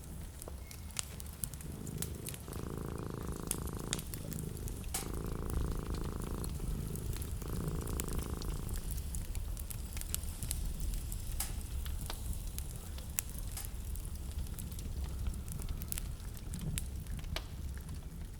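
Wood fire crackling and popping over a steady low rumble. Three separate rougher sounds of about a second and a half each come in the first half.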